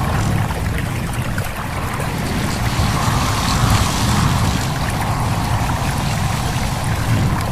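A stream babbling and trickling steadily, with wind blowing through leaves.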